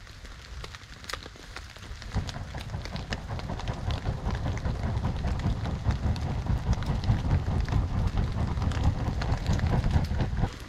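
Campfire of split logs burning in light rain: a low rumble of flames builds from about two seconds in and grows louder, with scattered crackles and pops over the patter of rain.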